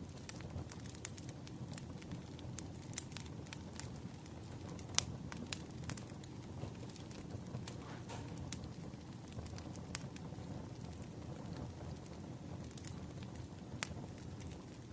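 Wood fire crackling: irregular sharp pops and snaps, a few louder ones, over a steady low rumble.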